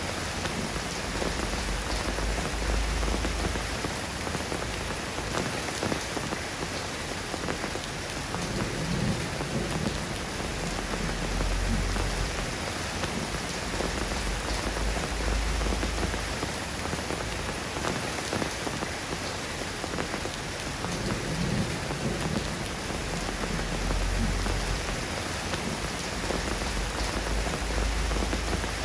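Steady soft rain falling and pattering on surfaces. A low rumble swells and fades three times underneath.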